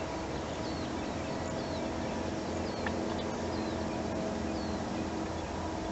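A bird repeating a short, high chirp about once a second over a steady low hum.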